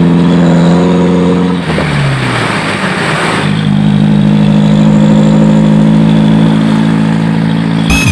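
Modified truck exhaust, loud, held at steady revs. The pitch drops about two seconds in, then holds steady again.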